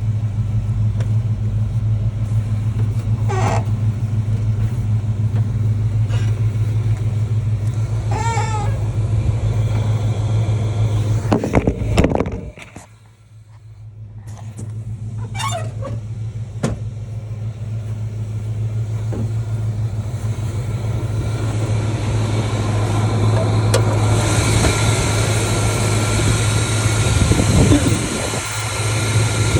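The 318 V8 of a 1987 Chrysler Fifth Avenue running steadily. About twelve seconds in the sound drops away almost to quiet, then builds back up gradually over the following fifteen seconds.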